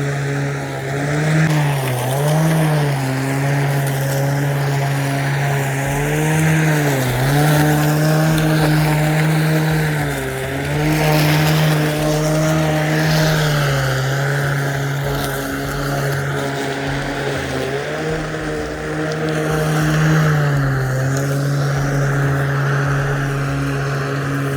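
Ryobi 40-volt brushless battery lawnmower running, its motor and spinning blade making a steady hum that sags briefly in pitch several times, about a second each, then recovers as it cuts through grass.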